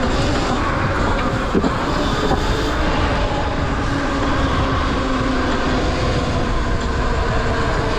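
Riding on electric dirt bikes: wind rumble on the microphone and tyre noise, with the steady whine of the bikes' electric motors drifting slightly in pitch.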